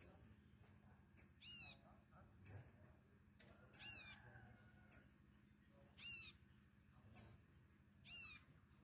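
Small songbird calling about every 1.2 seconds, eight times: each call a sharp chip followed by a quick run of high, falling notes.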